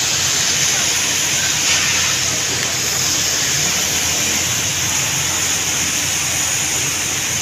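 Steady hiss of heavy rain falling on a flooded street, with a low traffic rumble underneath.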